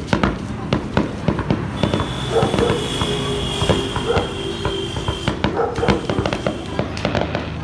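Fireworks display: a dense, irregular run of bangs and crackles from aerial shells bursting overhead. A steady high tone sounds for about three seconds in the middle, from about two seconds in to just past five.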